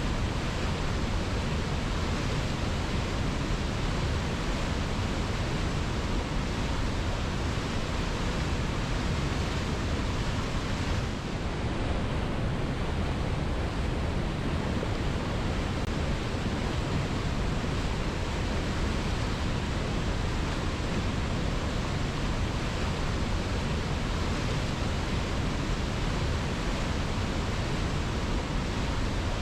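Waterfall pouring into a rocky pool: a steady, dense rush of falling water, heaviest in the low end, with a brief dip about eleven seconds in.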